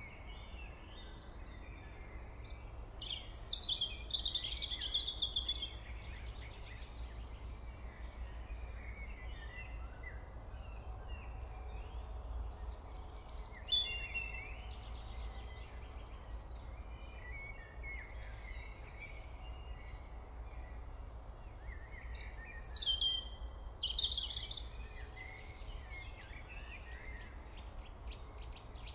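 Birds chirping and calling over a steady low hum, with louder clusters of calls about three seconds in, around thirteen seconds and around twenty-three seconds.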